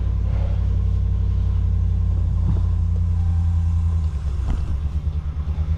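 Pickup truck engine idling with a steady low rumble that wavers briefly about four seconds in.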